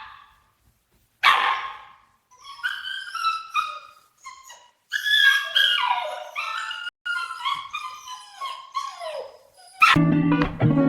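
A dog barks once about a second in, then gives a long run of high-pitched whines and yips, many of them falling in pitch.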